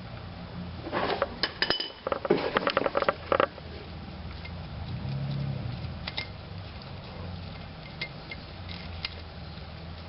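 Metal tools and parts clinking and clattering: a quick run of clinks in the first few seconds, then a few scattered single clicks over a steady low hum.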